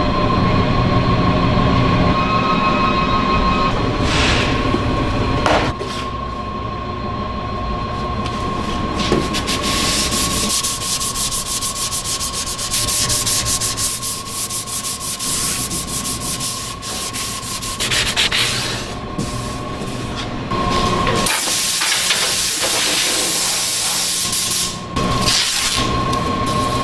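Workshop machinery running with a steady high whine, overlaid by rubbing and grinding noise that changes character every few seconds.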